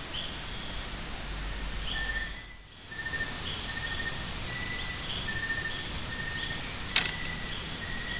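Steady hiss of rain with night insects chirping, short high chirps repeating about once a second. The sound dips briefly about two and a half seconds in, and there is a single sharp click near the end.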